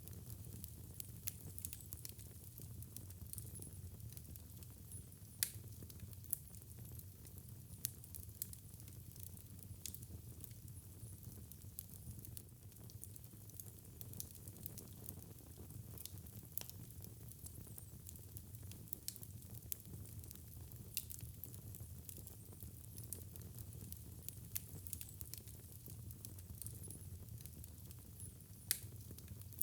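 Fireplace fire burning with a steady low rumble and hiss, and irregular sharp crackles and pops throughout. The loudest pops come about five seconds in and again near the end.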